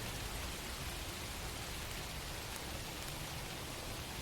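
Steady, even hiss of background noise with no other sound in it.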